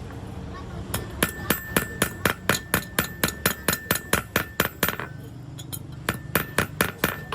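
Hammer striking metal in a rapid run of about four blows a second, each with a metallic ring. The blows stop for about a second, then a second short run of blows follows.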